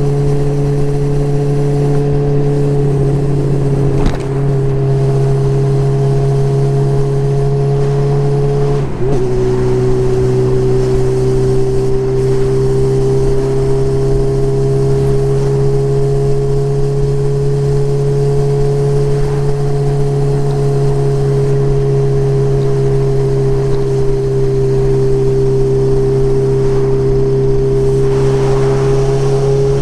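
Motorcycle engine running steadily at cruising speed, its note broken briefly twice, about four and nine seconds in, as it shifts gear.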